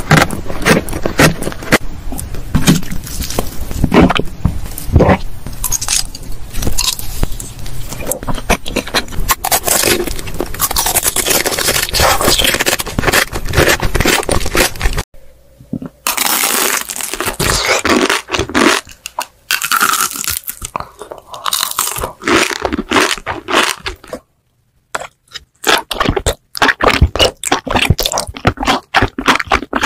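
Close-miked ASMR eating: dense crunching, crackling bites and wet chewing in the mouth. The sound cuts out abruptly about halfway through and again for about a second later on.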